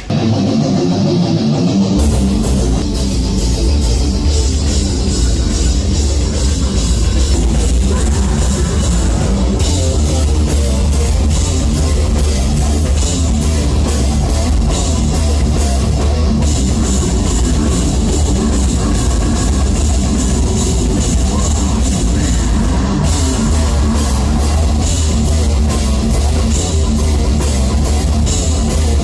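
Live heavy metal band playing loud, with distorted guitars and drum kit; the full band with heavy bass comes in about two seconds in.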